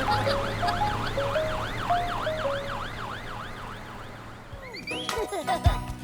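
Cartoon fire truck siren with a fast rising-and-falling wail over a lower two-note pattern, fading away over about four seconds. Short knocks and a rising whistle-like glide start near the end.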